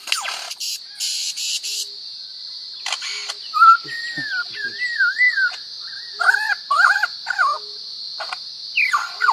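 A bird giving a string of varied whistles and chirps: quick falling sweeps at first, a short hiss about a second in, then wavering whistles that rise and fall, over a steady high hiss.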